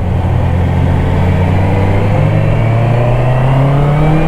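Honda CBR650R's 649 cc inline-four engine pulling under steady throttle, its pitch rising slowly as the revs climb.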